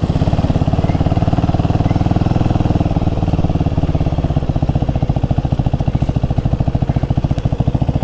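Single-cylinder motorcycle engine idling, a steady rapid putter of exhaust pulses that slows a little about halfway through.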